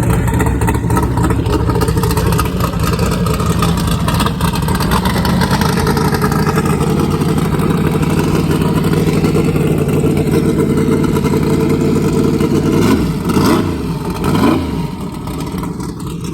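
Racing jet boat engine running loud and steady. Near the end there are two quick rises and falls in pitch, after which it gets quieter.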